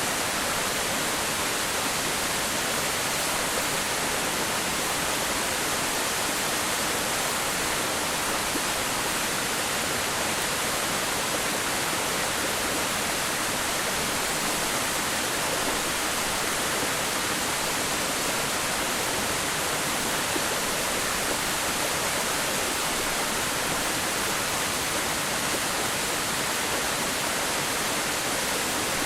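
Waterfall: water falling and splashing steadily, a dense, even rush with no breaks or changes.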